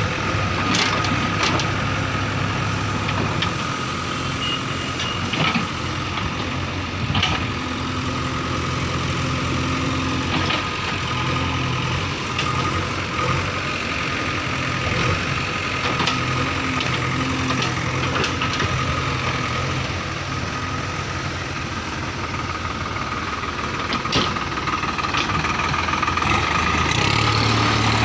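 Heavy diesel engine running steadily at low revs, with a steady high whine and a scattering of sharp knocks.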